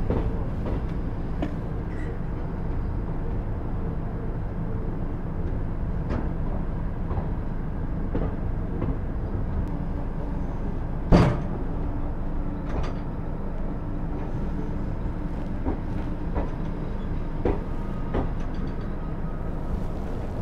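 Running noise of a moving passenger train heard from on board: a steady low rumble with scattered knocks and rattles, and one sharp, louder bang just past the middle.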